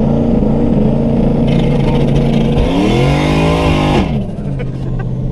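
Turbocharged Ford Mustang V8, heard from inside the cabin, held at a steady rev on the two-step launch limiter. About a second and a half in, a loud hiss of building boost joins it. The revs then climb and fall back, and about four seconds in the hiss cuts off sharply, leaving a lower steady engine note.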